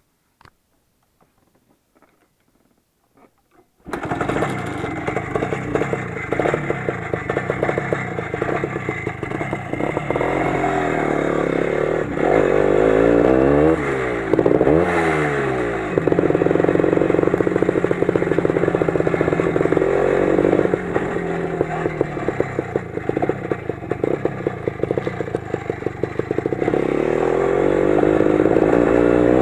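Near silence with a few faint clicks, then about four seconds in a Lider 3.221 motorcycle's 20 hp engine starts sounding loudly as it rides, with the revs rising and falling several times around the middle and again near the end.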